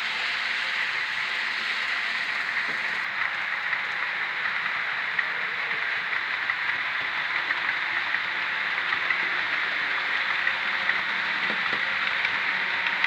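Model locomotive running on the layout's track: a steady whirring hiss of motor and wheels on rail, with light clicks from about five seconds in, more frequent near the end.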